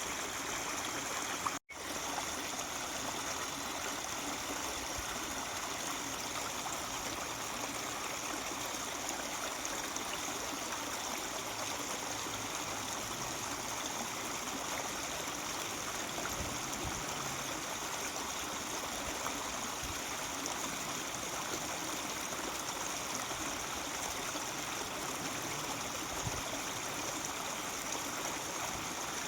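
Mountain stream running over rocks, a steady rushing and murmuring of water. The sound cuts out for an instant about a second and a half in.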